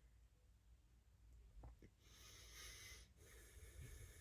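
Faint, shaky breathing of a woman who has been crying: a couple of soft clicks in the first half, then two breaths in the second half.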